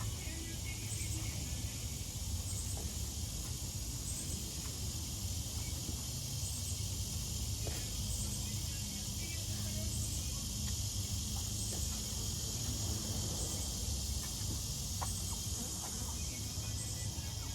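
Steady insect chorus: a continuous high buzz with a brighter pulse repeating about every second and a half, over a steady low rumble and a few faint clicks.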